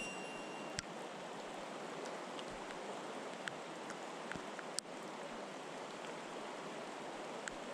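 Mountain stream water rushing steadily, with a few faint sharp clicks over it.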